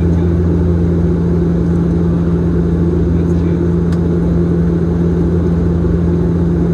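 Steady cabin drone of a Bombardier Dash 8-Q400's turboprop engines and propellers: a constant low pitched hum over an even rushing noise.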